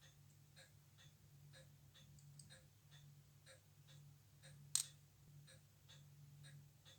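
Faint, regular mechanical ticking, about two ticks a second, over a steady low hum, with one sharp louder click a little before five seconds in.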